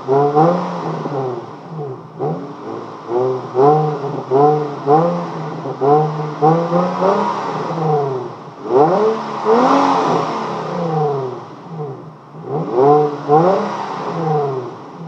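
Infiniti G35's 3.5-litre V6 through its stock exhaust, revved in a string of quick throttle blips about once a second, with one longer, higher rev about two-thirds of the way through.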